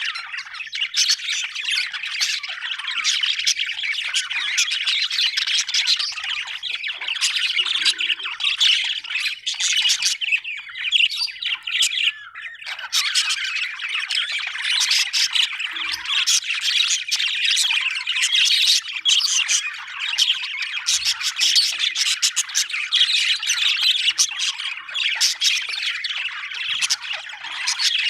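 Budgerigars chattering: a dense, continuous stream of fast warbles, chirps and squawks, thinning briefly about eleven seconds in before picking up again.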